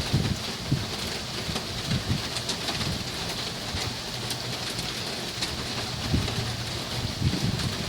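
Heavy rain falling steadily, an even hiss with scattered drop ticks, over a low uneven rumble that swells and fades.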